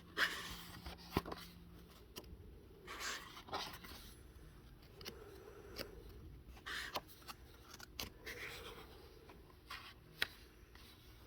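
Faint paper rustling from the pages of a coloring book being handled and turned, with a couple of light sharp taps.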